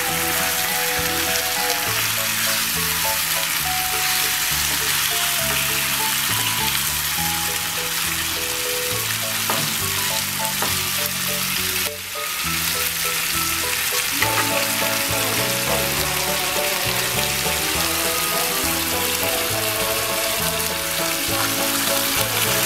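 Chicken pieces sizzling in oil and spice paste in a karahi over low heat, stirred with a wooden spatula, as the meat is browned in the spices. Background music with a run of steady notes plays over it.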